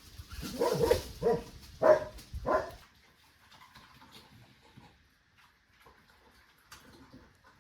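A dog barking four times in quick succession over about two seconds, then falling quiet.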